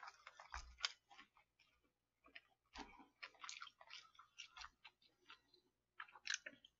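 Faint chewing of fried chicken, with irregular small crunches and wet mouth clicks.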